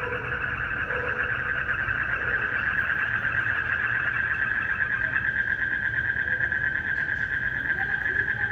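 Night chorus of calling frogs and insects: a dense, steady, fast-pulsing trill with a few faint, lower single calls scattered through it.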